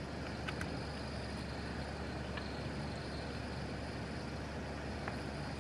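Steady hum of an electric heater running, with a few faint ticks.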